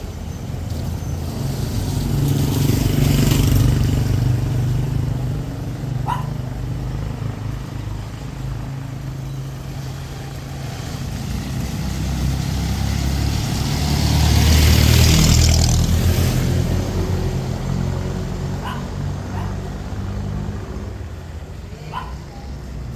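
Street traffic passing on a wet road: a steady engine rumble with two vehicles going by, about three seconds in and again at about fifteen seconds, each bringing a swell of engine sound and tyre hiss. A few brief clicks in between.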